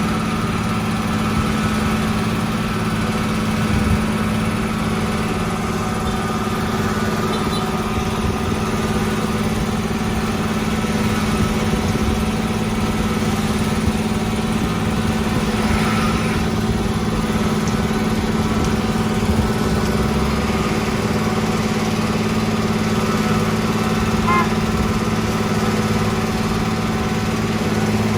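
A construction machine's engine running steadily at a constant pitch.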